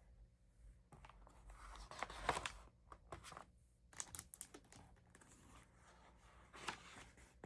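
Faint rustling and light clicks of a picture book's paper pages being handled and turned.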